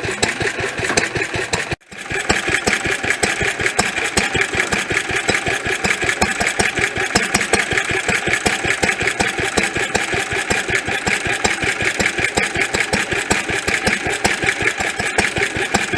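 Lister D type single-cylinder stationary engine running steadily at a constant speed, with an even beat of firing strokes. The sound drops out for a split second about two seconds in, then the same steady running resumes.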